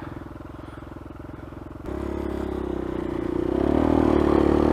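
Dirt bike engine running at a low idle, then the throttle opens about two seconds in and the engine gets louder and rises a little in pitch.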